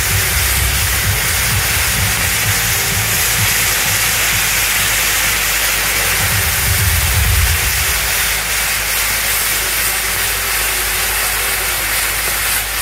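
Steady, loud hiss of a spinning ground-firework wheel pouring out sparks, with a low rumble underneath at times.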